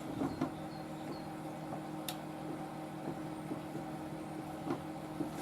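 A steady low hum with a few faint, scattered clicks and scrapes of a small screw eyelet being wound into soft pine with a screwdriver.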